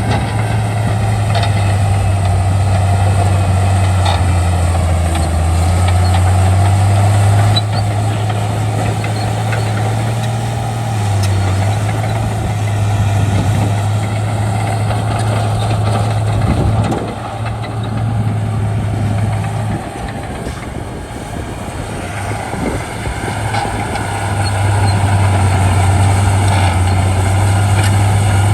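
Shantui D95 bulldozer's diesel engine running steadily with a deep drone as it works; the drone eases off partway through and builds up again near the end.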